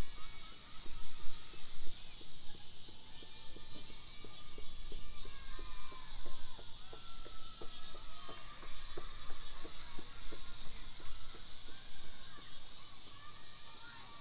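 Outdoor park ambience: a steady high-pitched insect drone, with birds calling now and then and soft, evenly spaced ticks about three a second through the middle.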